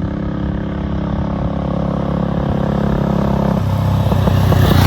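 1956 BSA Gold Star DB34's 500 cc single-cylinder engine running steadily. Its note changes about three and a half seconds in and it grows louder toward the end.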